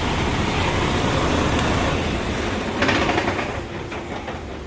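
Truck engine running steadily, with a short burst of noise about three seconds in, after which the sound drops off.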